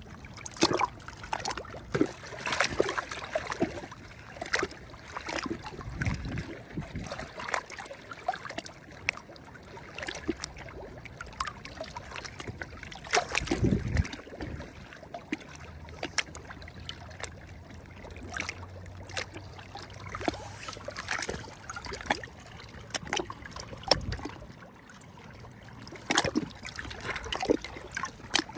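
Small sea waves lapping and splashing at the shore, with many quick irregular splashes. Heavier, deeper wash-ins come about 6, 14 and 24 seconds in, the one near 14 seconds the loudest.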